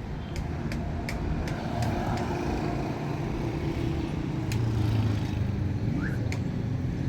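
A motor vehicle running steadily, with a low engine hum and road noise, and a few sharp clicks in the first couple of seconds and again later on.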